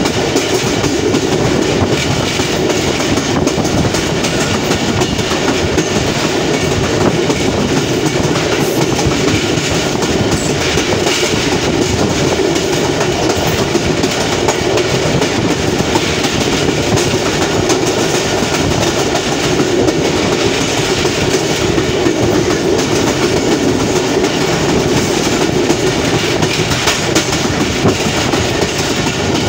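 Passenger train running at speed, heard from aboard: a loud, steady rumble and rattle of the wheels on the rails, with clickety-clack over the track joints.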